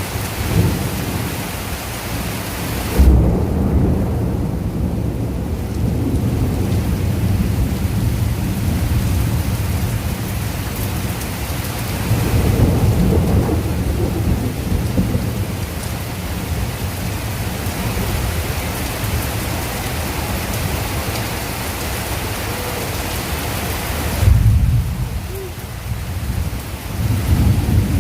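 Heavy rain falling steadily, with low rolls of thunder rumbling through it. The strongest thunder comes about three seconds in and again in the last few seconds, with a weaker roll in between.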